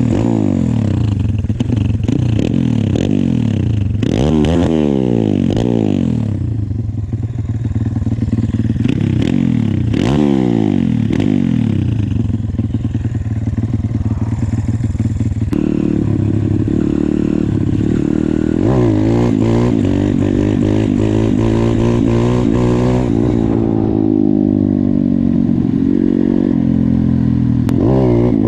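Single-cylinder four-stroke engine of a YCF 150 pit bike, revving hard and dropping back repeatedly as it is ridden, with sharp climbs in pitch about four and ten seconds in, then a steadier, wavering run in the second half.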